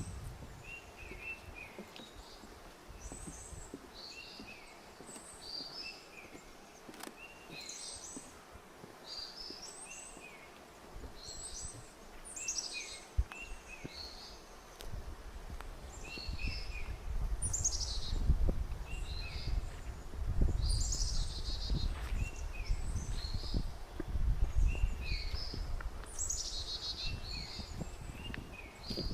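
Small songbirds chirping and calling over and over in short high notes. About halfway in, footsteps on a forest trail start beneath the birdsong as low, irregular thuds.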